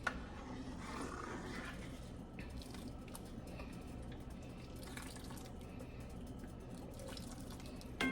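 Cream sauce simmering in a pan: a faint, steady bubbling hiss with scattered small ticks.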